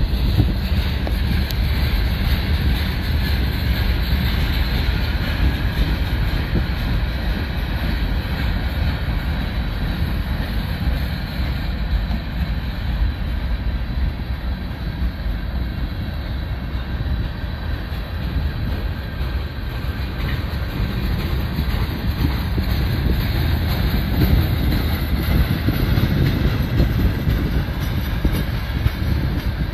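Cars of a mixed manifest freight train rolling past close by: a steady rumble of wheels on the rails as boxcars, covered hoppers and tank cars go by.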